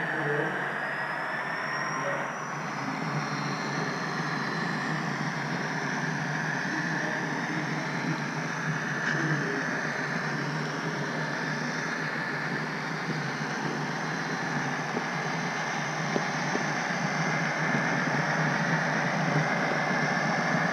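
HO-scale model train running on the layout track, heard from a camera riding on it: a steady whine with wheel and track noise that drifts slightly in pitch.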